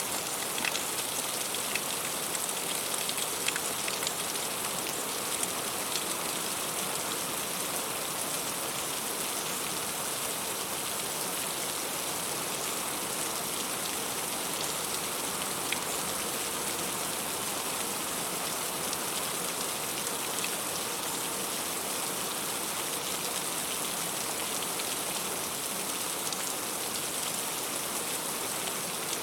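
Heavy rain falling steadily, with individual drops tapping distinctly through the even hiss of the downpour.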